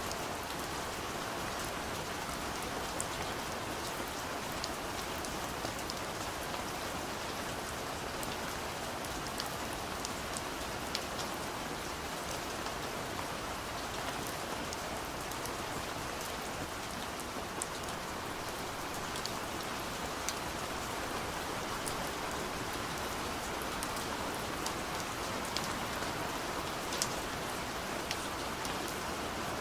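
Steady gentle rain on a window: an even patter with scattered small sharp drop ticks.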